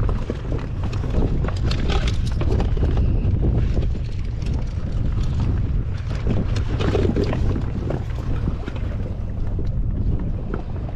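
Wind buffeting the microphone on a small boat at sea: a steady low rumble, with many short clicks and knocks over it.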